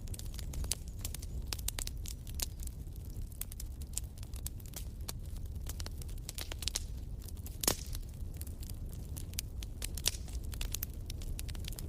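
Fire crackling in a fireplace: a steady run of small pops and snaps over a low rumble, with one louder pop about eight seconds in.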